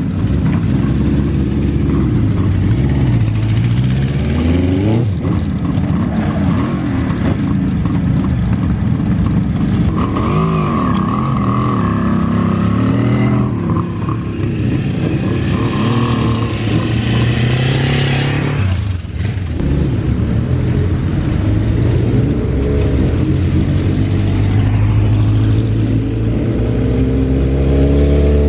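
Big 1970s motorcycle engines running and being revved, the pitch rising and falling several times, with a long rise near the end.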